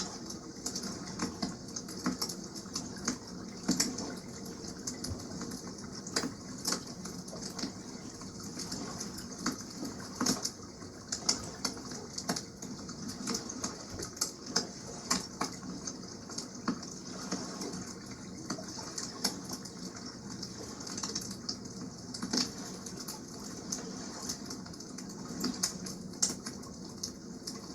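Wood campfire crackling, with frequent irregular sharp pops and snaps, over a steady rushing wash of water.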